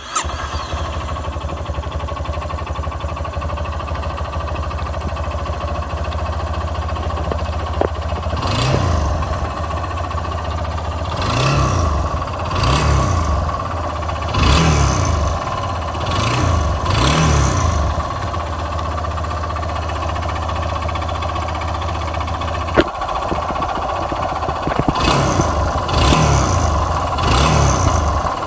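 Yamaha XTZ 250 Lander's single-cylinder air-cooled four-stroke engine idling, with about nine short throttle blips in the second half and a sharp click near the end. Through it runs an engine noise that the owner cannot identify.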